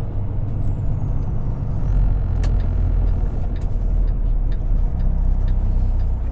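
Semi truck's diesel engine running steadily while driving, a low rumble heard from inside the cab, with a few light clicks from a couple of seconds in.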